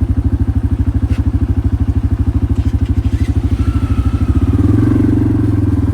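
Quad bike engine running at low speed with a rapid, even pulse; about four seconds in the throttle opens a little and it gets louder.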